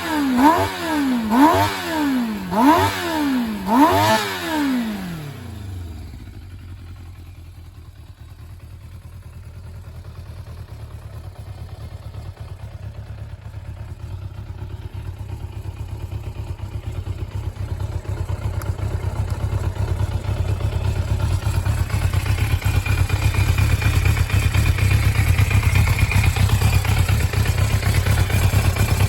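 Suzuki GSX400 Impulse (GK79A) motorcycle engine being blipped about five times in quick succession, each rev rising and falling. It then settles into a steady idle that grows gradually louder, running on after the start-up check.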